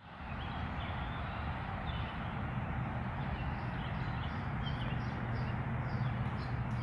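Birds chirping in short repeated notes over a steady low outdoor rumble.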